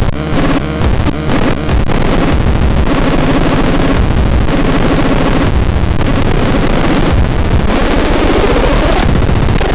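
Experimental synthesizer playing a dense, noisy electronic texture: rapid rhythmic pulses for about the first two seconds, then a continuous distorted wash with wavering tones and a rising sweep near the end.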